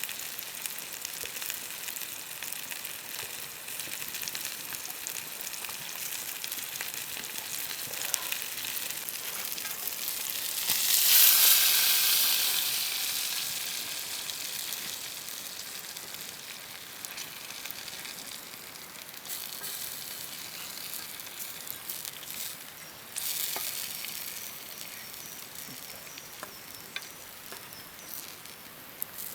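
Food sizzling and frying in a hot pan over a campfire, a steady hiss with scattered small crackles. About eleven seconds in the sizzling surges loudly, then slowly dies back down, with another smaller rise near the twenty-three second mark.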